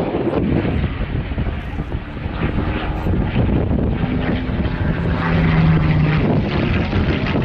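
Spitfire's Rolls-Royce V12 piston aero engine and propeller running loud and steady during a ground run-up. It dips slightly about two seconds in, then builds back up, loudest a little past the middle.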